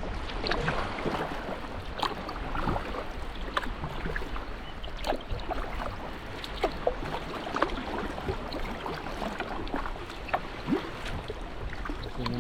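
Water splashing and lapping around a sea kayak as it is paddled, with many small irregular splashes and drips over a steady wash of water.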